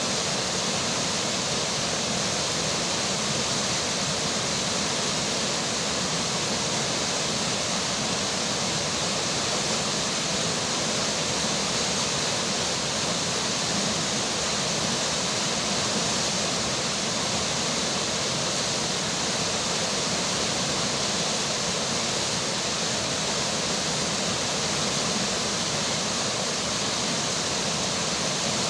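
River water flowing, with rain falling, making a steady, even rushing hiss that does not change.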